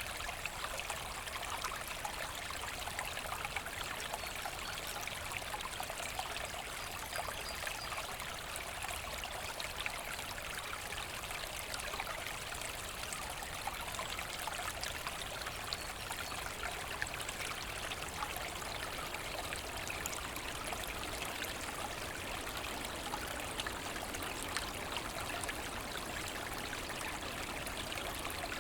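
Forest brook flowing and trickling steadily over stones, with a continuous splashing babble and no change in level.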